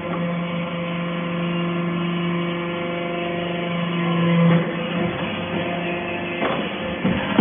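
Hydraulic metal-shavings baler running: a steady machine hum that changes about four and a half seconds in, with a few short knocks near the end.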